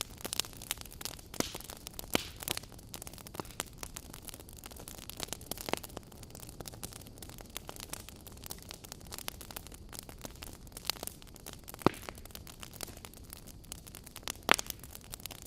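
Wood fire burning: a steady low rush with irregular crackles and pops as the burning wood splits, the loudest snaps about twelve seconds and fourteen and a half seconds in.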